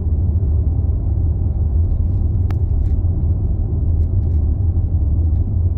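Steady low road rumble of a car moving, heard from inside the cabin, with a few faint light ticks.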